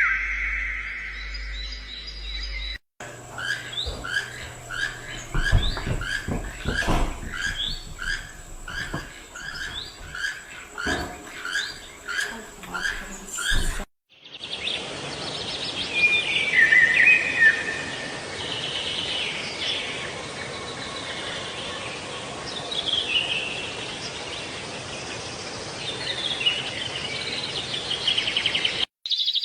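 Small birds calling and singing. A short chirp repeats about one and a half times a second, then after a cut comes a varied run of chirps and trills.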